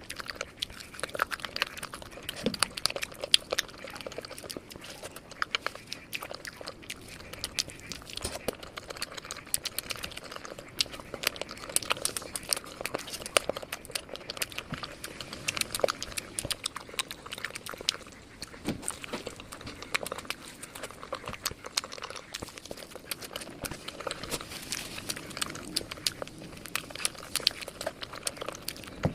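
Close-miked eating of crispy fried chicken drumsticks: continuous biting and chewing, with dense crunching and clicking mouth sounds.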